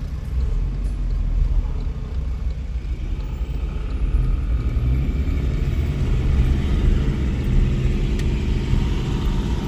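Steady low rumble of a car on the move, engine and road noise heard from inside the car.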